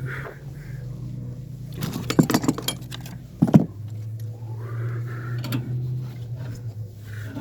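Metal tools and fittings clinking: a quick clatter about two seconds in, then one sharp metallic knock. A steady low hum runs underneath.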